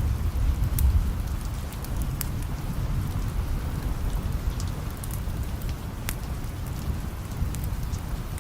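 Steady rain, with the low rumble of distant thunder easing off in the first couple of seconds. Scattered sharp ticks sound through it.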